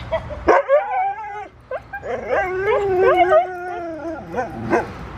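Siberian husky howling: a short wavering howl, then a longer drawn-out one that sags slightly in pitch near its end.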